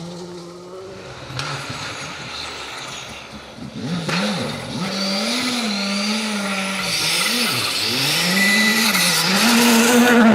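Rally car engine at speed, its revs rising and falling several times and growing louder as the car comes closer, loudest near the end.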